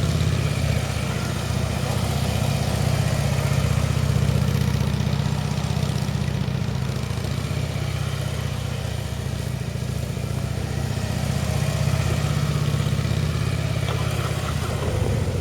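Motorcycle engine running at low, fairly steady revs through slow, tight U-turns, over a steady hiss of rain.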